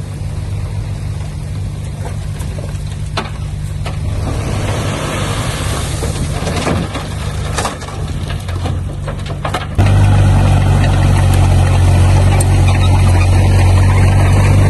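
Diesel engine of heavy earthmoving machinery running steadily, with scattered knocks and rattles. About ten seconds in, the engine suddenly becomes much louder.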